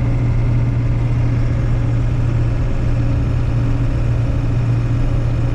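Steady drone of a pickup truck driving, with engine and road noise heard from inside the cab.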